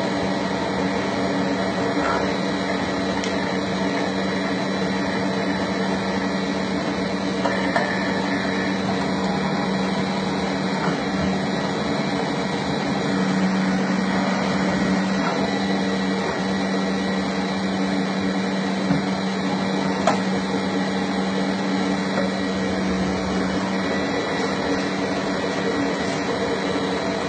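Steady electric motor hum with a low, even tone, broken by a few faint clicks.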